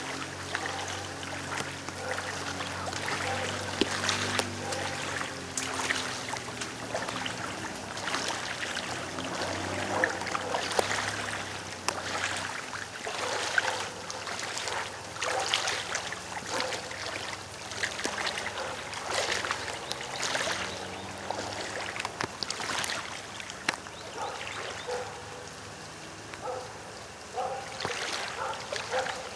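Floodwater sounds: trickling and running water with irregular splashes.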